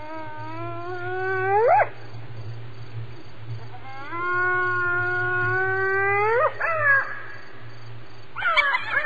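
Hyena whooping: two long calls, each held low and then rising sharply in pitch at the end, the first ending about two seconds in and the second running from about four to six and a half seconds, over a steady low hum. A different, choppier call starts near the end.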